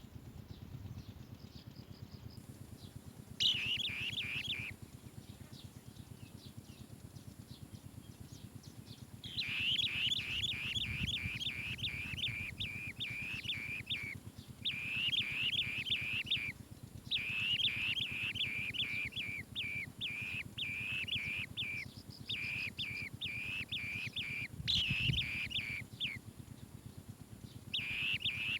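Asian green bee-eaters calling: runs of quick, harsh chirps, about four or five notes a second. A short run comes about three seconds in, and after a pause they call almost without a break.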